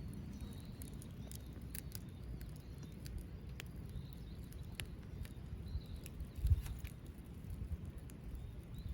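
Wood fire crackling in a small Belmont TABI folding fire stand: irregular sharp pops and snaps over a steady low rumble, with a heavier bump about six and a half seconds in.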